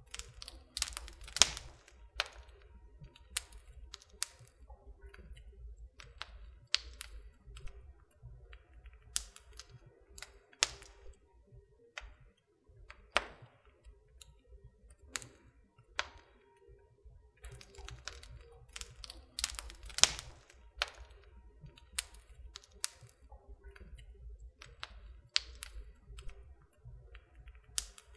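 Wood fire in a fireplace crackling: irregular sharp pops and snaps, some much louder than others, over a low steady rumble.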